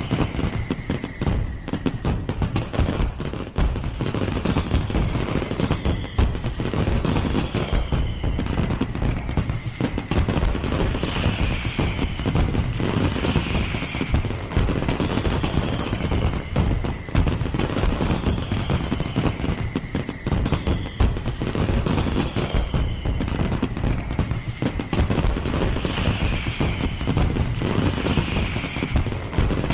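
Firework display: a continuous rapid barrage of bangs and crackles. A high falling whistle-like tone repeats about every two seconds over it.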